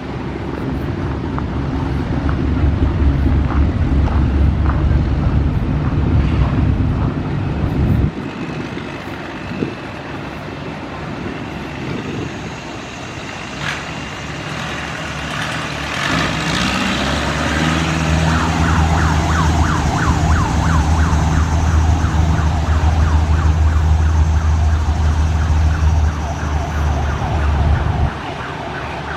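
Vehicle engines running with a deep, steady note for several seconds. The sound drops away about eight seconds in, then a rising rev leads into a long, steady engine run that cuts off near the end.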